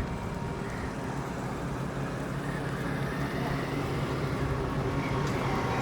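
Steady low engine hum with road-noise haze, typical of passing traffic, slowly growing a little louder.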